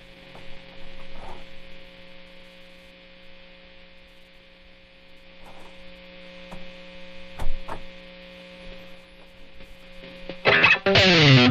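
Electric guitar rig humming while the strings are silent: a steady mains buzz from a P90-pickup Epiphone SG through a Boss ME-80, with a few small clicks and a louder tap about seven seconds in. Near the end, distorted electric guitar comes back in with a falling slide.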